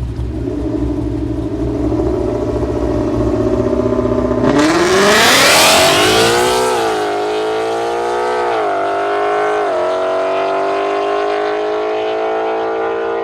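Race car's combustion engine held at raised revs, then launching about four and a half seconds in with a sudden loud rush as the revs shoot up. It accelerates hard away, the pitch dropping briefly twice at upshifts as it pulls through the gears.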